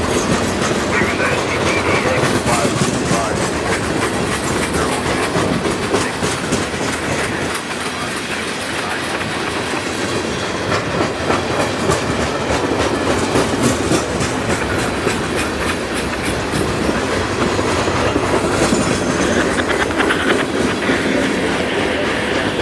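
Freight cars of a manifest train rolling past close by: a steady rumble of steel wheels on the rails with continuous clickety-clack.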